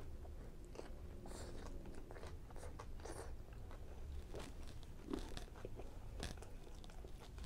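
Close-miked chewing of a chicken fajita in a soft tortilla: irregular wet smacks and small clicks of the mouth, with light bites.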